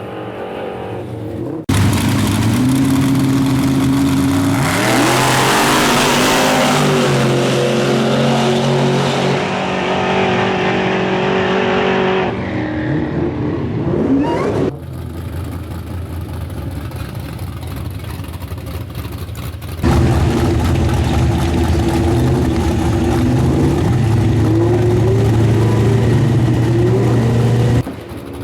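Race car engines revving hard, in several short clips joined by abrupt cuts. The engine note holds and then jumps or climbs in pitch, with a loud hiss over it for a few seconds in the first clip.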